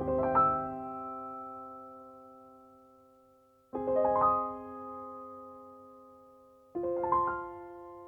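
Slow background piano music: three chords struck about three seconds apart, each rolled quickly upward and left to ring and fade.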